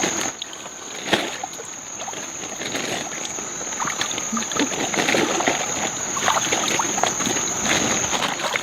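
Rustling and scattered light clicks from handling among the trees, with a steady high-pitched insect drone that stops shortly before the end.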